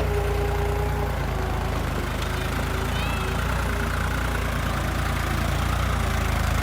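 Tractor engine running steadily with an even, low drone.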